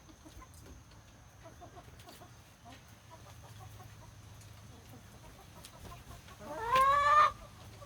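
Hens feeding, with faint soft clucks and small clicks, then, about a second before the end, one loud rising squawk from a hen lasting under a second.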